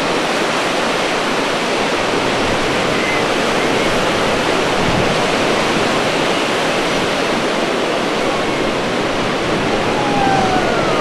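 Ocean surf washing onto a beach: a steady, unbroken rush of waves.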